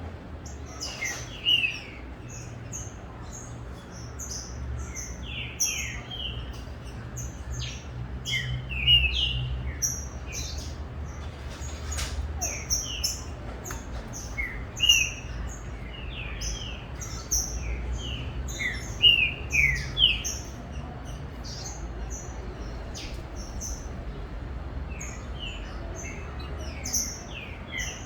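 Green-winged saltator (trinca-ferro) singing: many short, clear whistled notes, most of them falling in pitch, in quick phrases, with a few louder phrases along the way. This is a tournament bird that is starting to come into song form. A faint low hum runs underneath.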